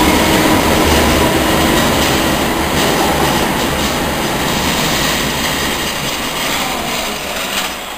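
London Underground train running away into the tunnel, its wheel and motor noise fading steadily, with a few sharp clicks from the wheels on the rails.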